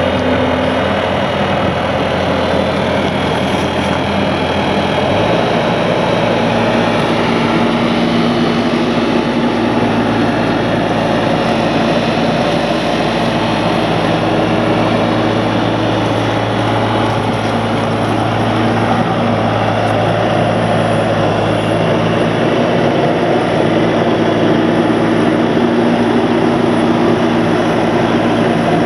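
Diesel engine of a 2008 Bobcat compact skid steer, a three-cylinder Kubota, running steadily. Its engine speed steps up about five seconds in and then holds.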